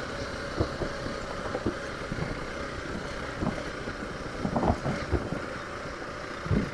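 Hero Xpulse 200 single-cylinder motorcycle running while riding a rough off-road stretch, with wind noise on the microphone and irregular low thumps.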